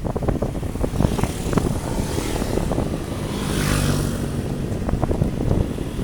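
Vehicle engine running steadily on the move, with wind buffeting the microphone. About three and a half seconds in, a hiss swells and fades, like a vehicle passing close by.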